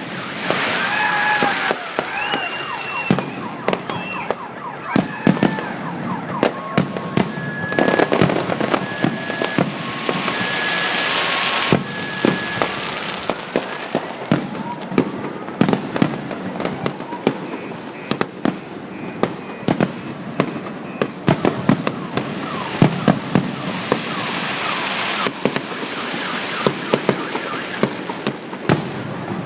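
Fireworks display: a dense run of sharp bangs and crackling, with a few whistling tones gliding in pitch in the first seconds. Around the middle an alarm-like beeping alternates between a higher and a lower tone for several seconds.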